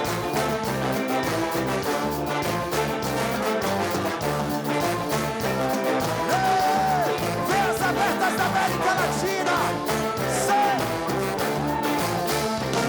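Band music with a steady beat. About halfway through, a high melody line comes in, holding one note and then wavering.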